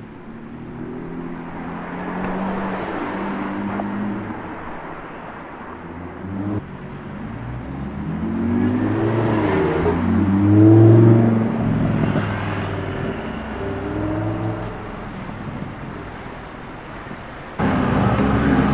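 Supercar engines running on a city street: several revs and passes with the engine pitch rising and falling, loudest a little past halfway through. Near the end the sound jumps abruptly to another loud engine.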